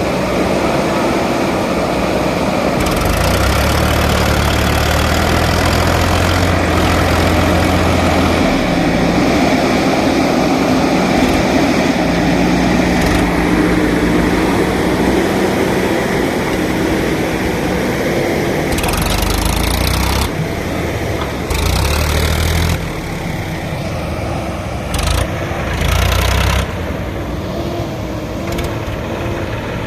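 JCB 3DX backhoe loader's diesel engine running steadily, with a heavier low rumble that comes and goes several times.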